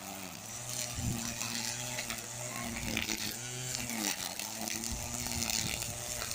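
A small electric motor running with a steady hum, its pitch sagging briefly twice.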